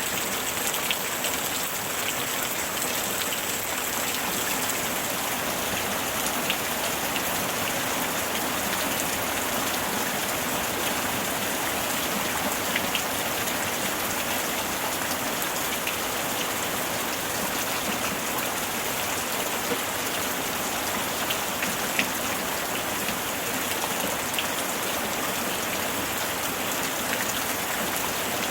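Steady summer rain falling on a surface, an even rushing hiss with scattered sharper drop taps.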